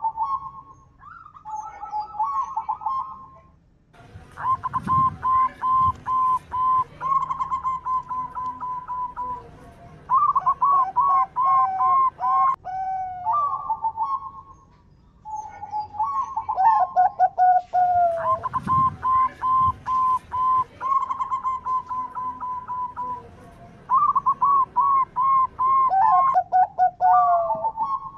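Zebra dove (perkutut) cooing: runs of short, quick, repeated coo notes with some gliding notes, in two similar phrases. A low sound sits under the calls about five seconds in and again near nineteen seconds.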